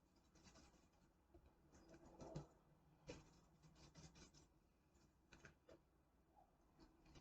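Near silence, with a few faint scattered clicks and taps from a hand sifter sifting bouillon powder.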